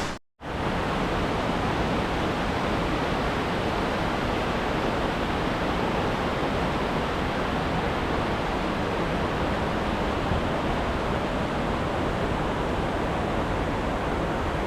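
Steady rushing of the mountain stream and small falls in a limestone gorge, an even wash of water noise after a brief gap at the start.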